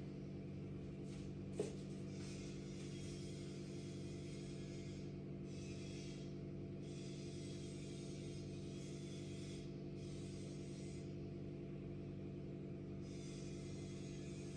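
A steady mechanical drone from an unidentified machine running next door: a hum of several steady tones with a hiss above it. A single click about a second and a half in.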